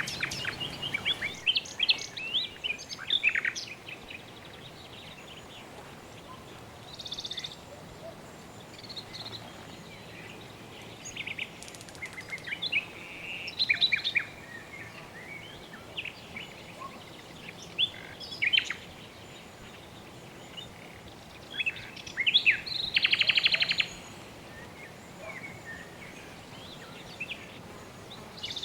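Several birds chirping and calling off and on, with a rapid buzzy trill about three-quarters of the way through, over a steady soft background hiss of outdoor ambience.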